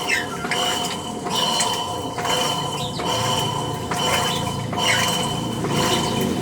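A machine's electric motor running, with noise from its motor bearing: steady tones at several pitches over the running noise. The machine otherwise works normally.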